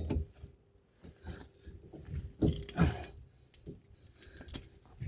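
Irregular clunks, knocks and scrapes of parts and tools being handled during car repair work, with a faint steady hum underneath. The loudest knocks come between about two and a half and three seconds in.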